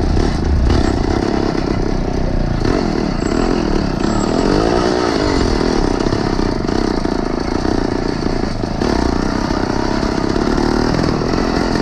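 Small engine of a motorized 20-inch bicycle running under way, its pitch wavering up and down with the throttle.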